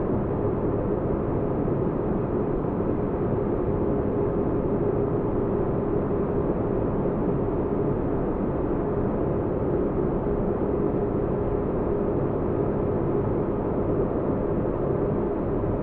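Spaceship-interior ambience: a steady, deep noise drone with a low hum running through it, unchanging throughout.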